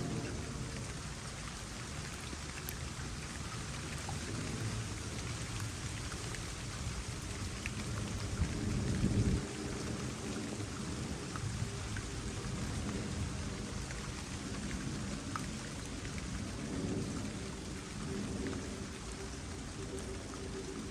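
Steady rain falling on a small pond, with trickling water, an even hiss of drops. About eight seconds in a low rumble swells and then cuts off suddenly about a second later.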